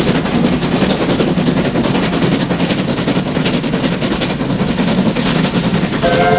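Steam locomotive working past with rapid exhaust beats over the running noise of the train. About six seconds in, a steam whistle starts sounding, several tones together.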